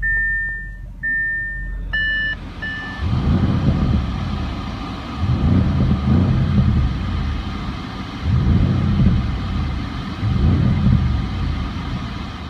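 A dashboard warning chime beeps about once a second for the first three seconds. The idling 4.0-litre TFSI twin-turbo V8 of a 2016 Audi S6 is then revved four times in neutral, each rev rising and falling back, heard from inside the cabin.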